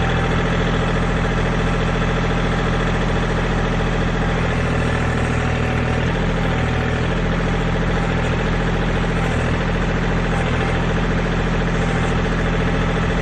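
Kubota L2501 tractor's three-cylinder diesel engine running at a steady speed.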